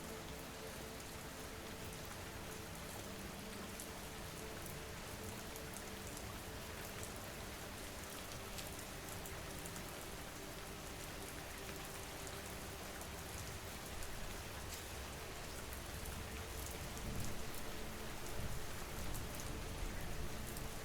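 Steady rain falling, an even hiss with many small drop ticks, growing a little louder and heavier in the low end over the last several seconds.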